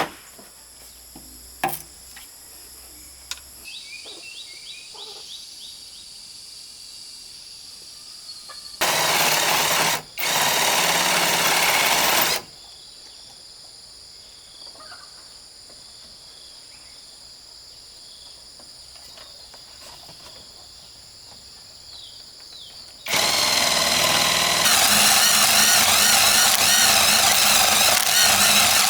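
A handheld power tool running in two spells: about three seconds starting near nine seconds in, with a short break, then steadily from about twenty-three seconds on. Between them a few light knocks and a steady high-pitched drone.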